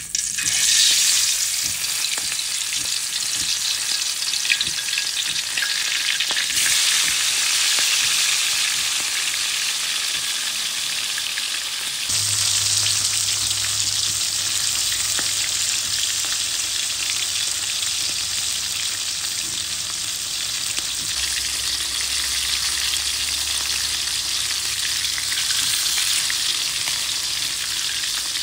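Fresh prawns frying in hot oil with turmeric: a steady, loud sizzle with constant fine crackling, starting suddenly.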